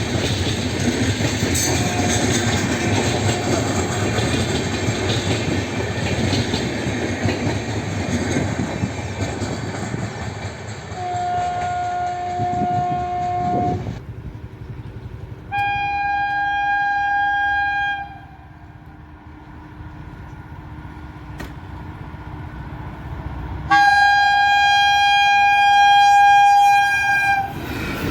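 Indian Railways train running past with a steady rumble of wheels on track, then the locomotive horn sounding three times: one blast about halfway through, a second a few seconds later, and a longer, louder one near the end.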